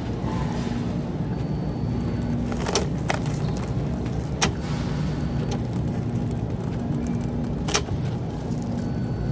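A steady low machine hum with a few sharp clicks or knocks, four in all, the strongest about four and a half seconds in.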